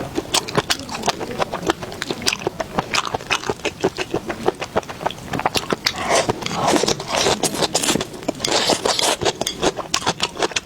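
Close-miked chewing and mouth smacking of someone eating, a dense run of quick wet clicks with a couple of longer noisier stretches in the second half.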